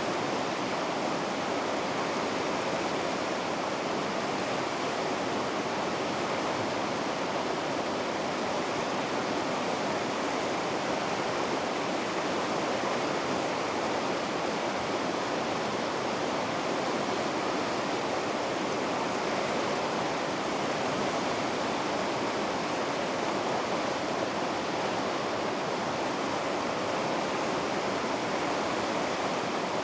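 River rapids rushing, a steady, unbroken roar of white water.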